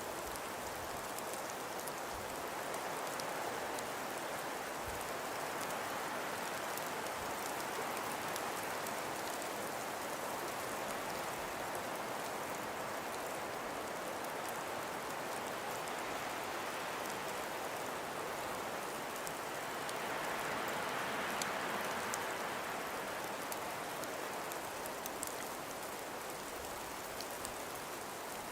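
Steady wind with blowing snow: an even hiss that swells briefly about two-thirds of the way through, with faint light ticks over it.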